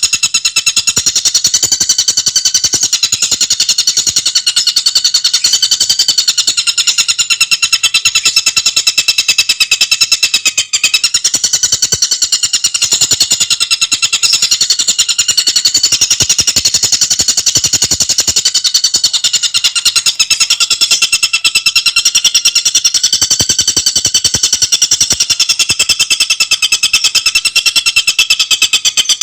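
Tengkek buto bird singing a continuous, very fast, tightly spaced chattering trill of high-pitched notes, the pitch wavering slightly without a break.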